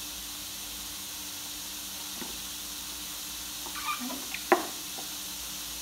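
Ground beef sizzling steadily in a covered electric skillet. Near the end, a few small scraping sounds and one sharp tap as cottage cheese is knocked out of a measuring cup into a plastic mixing bowl.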